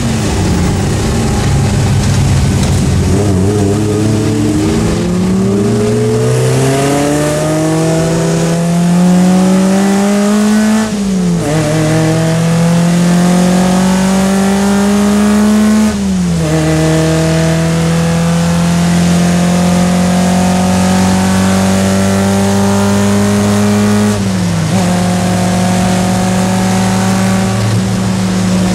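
Triumph Spitfire Mk3 four-cylinder engine heard from inside the cabin, pulling through the gears: its pitch climbs steadily, then drops sharply at three upshifts, and after the last one it holds a nearly steady pitch at cruising speed.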